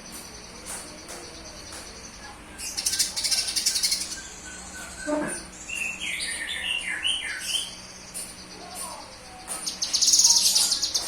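Cucak kinoy bird singing: a run of varied whistled notes about six seconds in, and loud rapid buzzing trills twice, about three seconds in and near the end, over a steady high buzzing.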